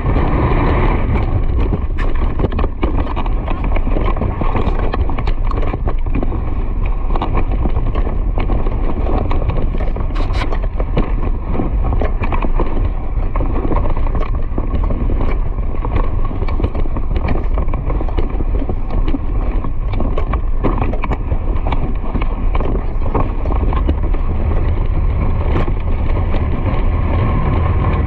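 A horse's hooves drumming at speed over the ground, under a steady low rumble of wind buffeting the microphone.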